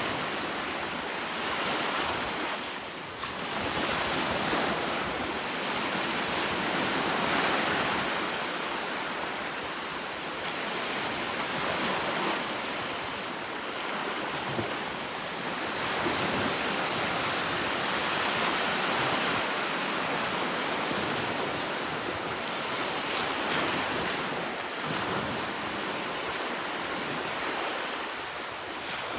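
Sea waves breaking and washing on the shore, a steady rush of surf that swells and ebbs every few seconds, with some wind on the microphone.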